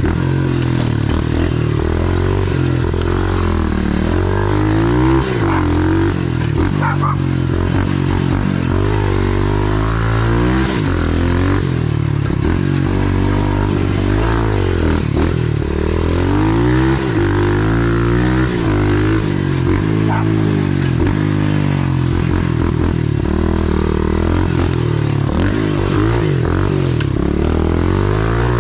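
125cc pit bike's small single-cylinder four-stroke engine running under way on a trail, its pitch rising and falling over and over as the throttle is opened and closed.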